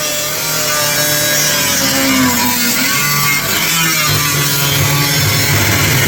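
A power tool running continuously, its pitch wavering slightly as it works.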